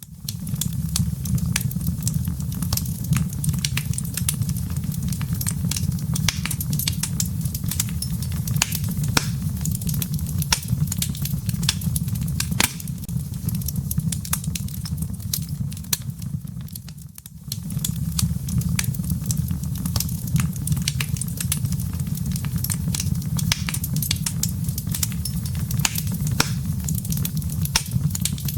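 Wood fire burning in a fireplace: a steady low rumble of the flames with frequent sharp crackles and pops from the burning firewood. A little over halfway through, the sound briefly dips before the crackling resumes.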